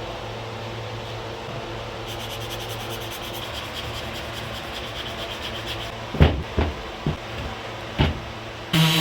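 Hand rubbing on wood, a fast, even scraping texture over a low steady hum, followed by four sharp knocks in the last few seconds.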